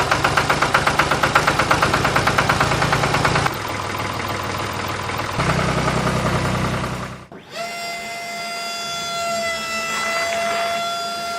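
Tractor engine chugging with a fast, even beat of about seven pulses a second; it drops in level about three and a half seconds in and comes back up two seconds later. About seven seconds in it cuts off abruptly and a steady, held horn-like tone takes over.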